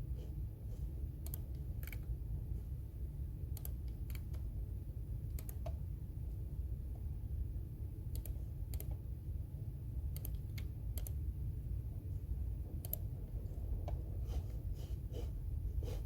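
Computer keyboard typing: irregular, scattered keystroke clicks, sometimes in small clusters, over a steady low background hum.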